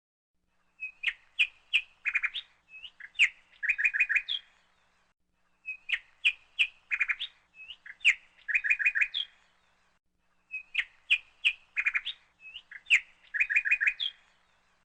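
Bird song: a phrase of sharp chirps followed by quick trills, each lasting about three and a half seconds and repeated three times in the same pattern with short pauses between them.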